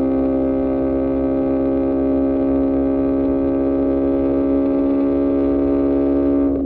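QJMotor SRK600 inline-four with an Austin Racing exhaust, running at steady high revs as the bike holds its speed. The note sinks very slightly toward the end.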